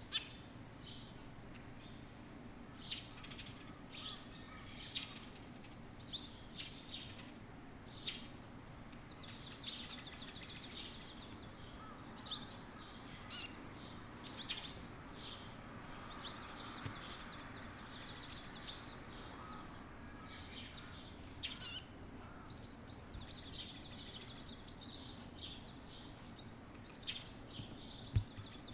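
Small songbirds chirping and calling outdoors: many short high chirps and quick down-sliding notes, scattered through, turning into denser continuous twittering near the end.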